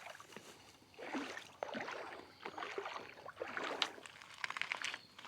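Irregular sloshing and splashing of water mixed with scattered clicks and knocks of handling, busiest from about a second in.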